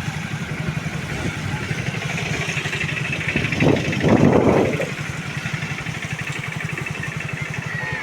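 A motor engine running steadily with a fast low pulsing, and a louder burst of noise about halfway through.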